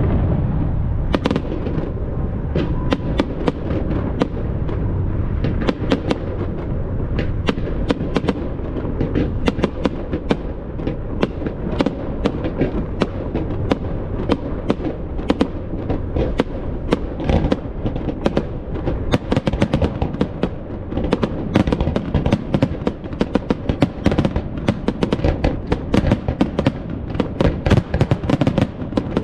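Fireworks display: a dense, continuous barrage of sharp cracks and bangs over a constant low rumble of booming shells.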